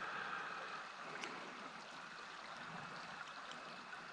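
Creek water running: a steady, soft rush of flowing water.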